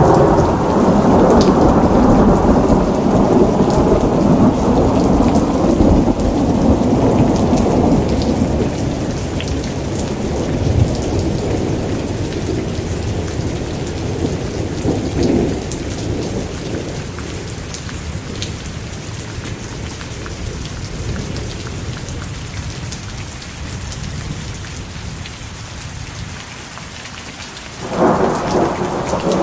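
Steady rain with rolling thunder: a long, loud low rumble for the first several seconds that slowly dies away, then a new roll of thunder breaks in suddenly near the end.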